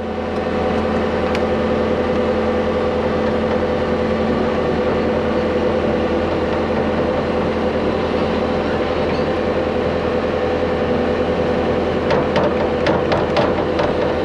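Excavator diesel engine running steadily under throttle, rising in level at the start as it comes up to working revs. A run of sharp metallic clanks comes near the end.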